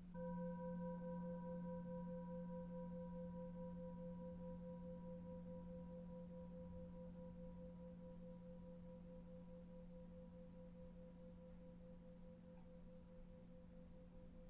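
A singing bowl struck once, ringing with a slight wavering pulse and slowly fading, over a low steady drone.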